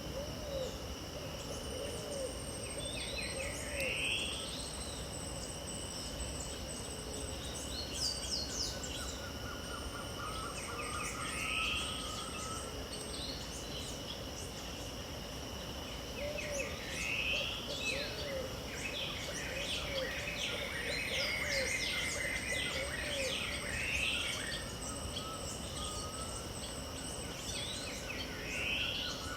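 Wild dawn chorus of Pantanal birds over a steady high-pitched insect drone. A rising call repeats every several seconds, runs of short low notes come near the start and again about halfway through, and there is a busier spell of chirping in the second half.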